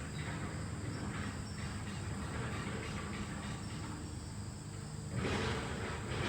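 LG ductless mini-split air conditioner running: a steady low hum under fan noise, which swells briefly about five seconds in.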